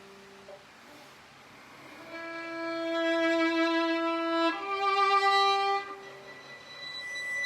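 Violin playing slow, sustained bowed notes in a song without words: a long held note, then a second note, then a soft high note near the end.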